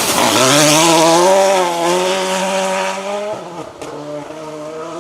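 Rally car engine revving hard as it accelerates, its pitch climbing steadily for about three seconds, then dropping sharply and holding lower, with the sound growing fainter after the drop.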